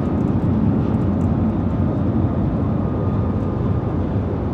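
Shanghai Transrapid maglev train heard from inside the cabin at close to 400 km/h as it begins to slow: a steady rushing rumble with a faint high whine.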